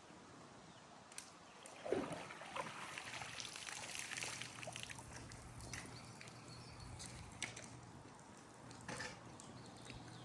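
Water sloshing and trickling, starting suddenly about two seconds in and easing off, with a steady low hum underneath.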